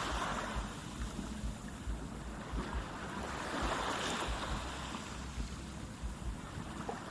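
Outdoor rushing noise like surf or waves, swelling twice, with wind rumbling on the microphone.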